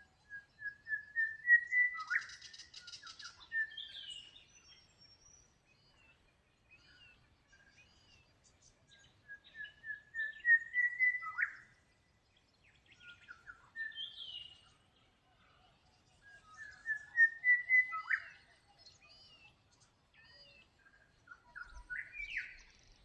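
A songbird repeats one whistled song four times: a run of short notes rising in pitch and quickening, ending in a sharp whip-like sweep. Shorter chirps from other birds come between the songs.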